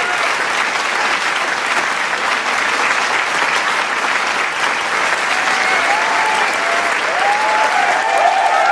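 Large crowd applauding steadily, with cheering voices joining in from about halfway through.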